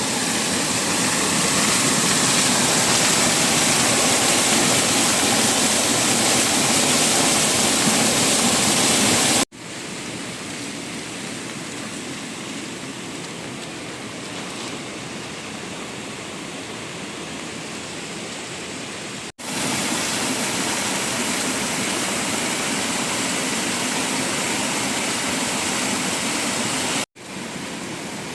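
Steady rushing water, an even hiss with no rhythm, in stretches joined by abrupt cuts. It drops noticeably quieter about nine seconds in, comes back louder about ten seconds later, and cuts quieter again near the end.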